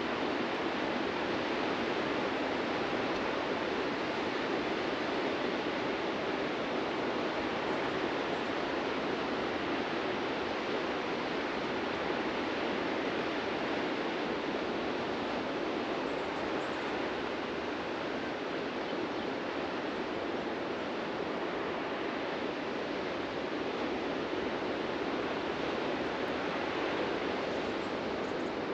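Ocean surf breaking on a sandy beach: a steady, unbroken wash of waves with no distinct single crashes.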